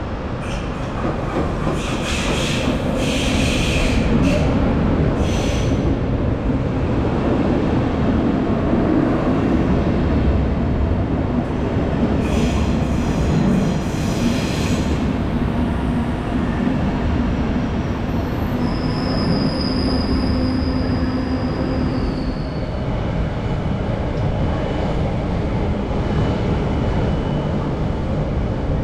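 Passenger train of vintage Rheingold coaches rolling into a station platform and braking, with a steady rumble of wheels on rail. The wheels and brakes squeal in several bursts, then give one long high squeal near the end that drops in pitch as it dies away.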